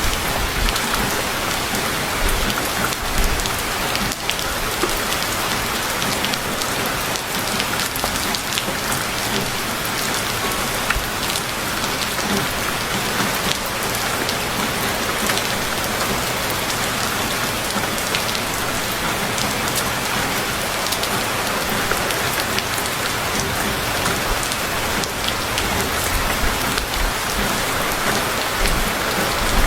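Heavy rain falling steadily, a dense even hiss scattered with the sharp ticks of individual drops striking surfaces.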